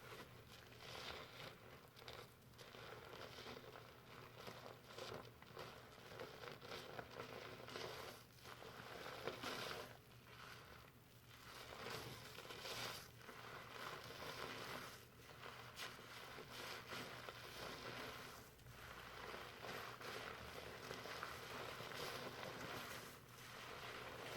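Shampoo lather being worked slowly through hair with the fingers: a faint, continuous crackling and rustling of foam that swells and eases irregularly.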